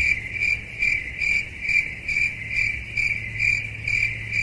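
Steady, even chirping like an insect's song, about two and a half chirps a second on one high pitch.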